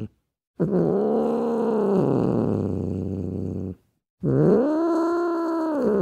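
Two long, drawn-out animal calls, each rising and then falling in pitch, with abrupt silent cuts before and between them.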